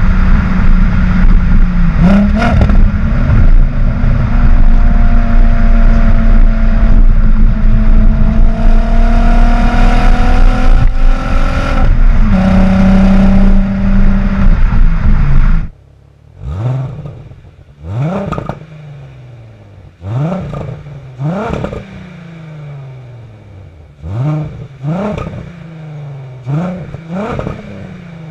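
Volkswagen GTI 2.8-litre 12-valve VR6 running through a Techtonics cat-back exhaust with a Magnaflow muffler. For about fifteen seconds it is loud and steady, its pitch rising slightly. Then it drops sharply quieter and the engine is blipped about eight times, each rev climbing fast and falling back to idle.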